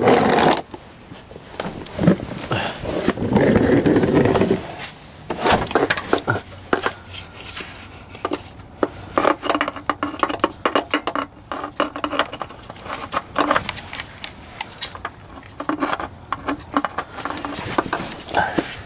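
Scattered clicks, knocks and scraping of hands handling a new spin-on oil filter and nearby parts under a car while fitting the filter, with a louder rough scraping stretch about three to five seconds in.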